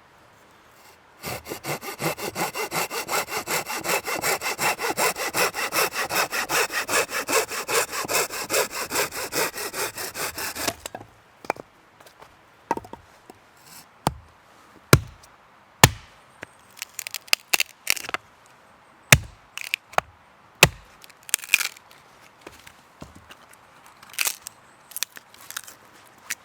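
Hand saw cutting through wood in fast, even back-and-forth strokes for about ten seconds. It stops, followed by scattered sharp knocks and snaps of wood.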